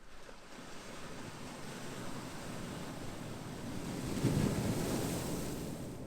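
Ocean waves: a wave surges in and breaks, swelling to its loudest about four seconds in, then easing off as it washes back.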